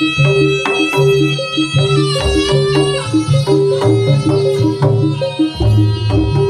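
Live Javanese traditional ensemble music for a Samboyo dance: hand drums striking sharply over a low bass line, a quickly repeating pitched-percussion figure and a sustained melody above.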